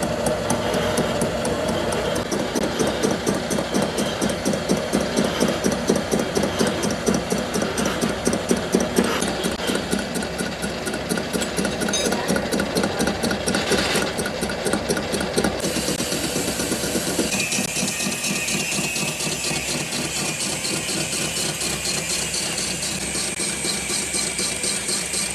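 Heavy factory machinery running continuously with a fast, even pulsing rattle. About 16 seconds in the sound turns brighter and a steady high whine sets in.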